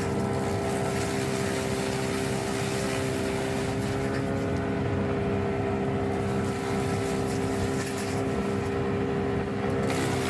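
Wood chipper's engine running steadily at a constant speed, a continuous mechanical hum.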